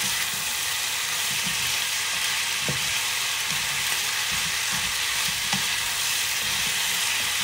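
Chicken feet sizzling in a hot frying pan as they are stirred with a spatula in oyster sauce and seasonings; a steady sizzle with a couple of light taps of the spatula on the pan.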